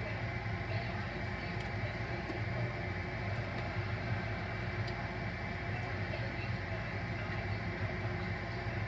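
Potato logs frying in hot grease in a skillet: a steady sizzle with a few faint crackles, over a low, even hum.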